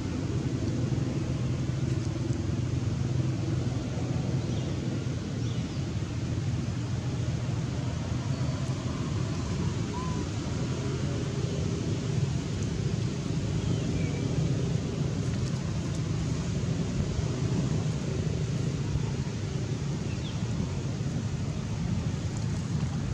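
Steady low rumble of outdoor background noise, with a few faint short chirps.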